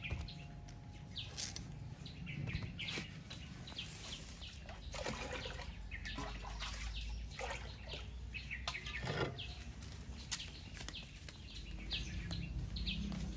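Small birds chirping over and over in short, high, falling calls, with a few sharp knocks from handling.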